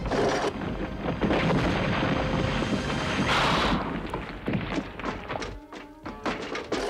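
Cartoon fight sound effects: a long, loud crashing clatter with a hissing rush at about three and a half seconds, then a string of sharp knocks and thuds, over the background score.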